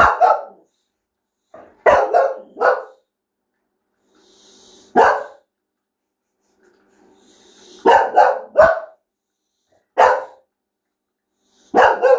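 Boxer puppy barking in alarm at a bath bomb, about ten sharp barks coming singly or in quick runs of two or three, with a low growl building before some of them.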